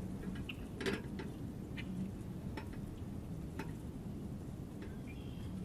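Small birds at a feeder: scattered sharp ticks about once a second, like beaks striking seed and the feeder, with a few short high chirps near the start and the end, over a steady low hum.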